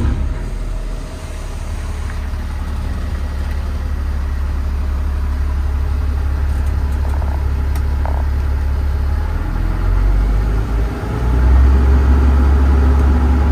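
Paccar PX-6 6.7-litre diesel engine idling with a steady low drone; about eleven seconds in the drone shifts and gets louder.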